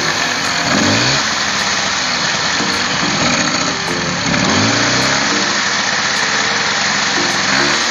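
Vespa Corsa 125's two-stroke scooter engine running, its throttle blipped up a few times and falling back to idle, the freshly assembled engine being test-run.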